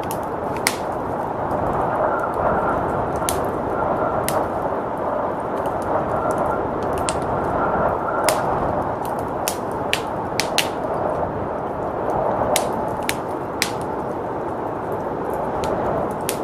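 Wood fire crackling with irregular sharp pops over a steady rush of blizzard wind.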